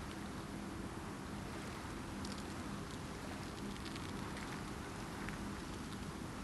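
Steady rain with scattered drops ticking, over a low rumble.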